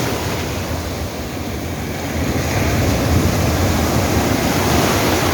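Sea waves breaking and washing up a beach, a steady surf noise that swells a little in the middle, with wind buffeting the microphone.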